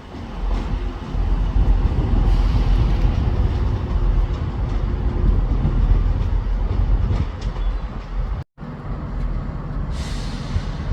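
Train running through a station: a loud, steady low rumble of engine and wheels on the track. It cuts off dead about eight and a half seconds in, and a quieter rumble follows.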